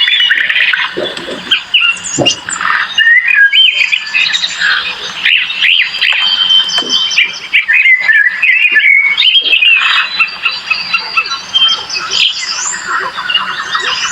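Dense chorus of birds calling over one another, with many quick rising and falling whistled and chirped notes.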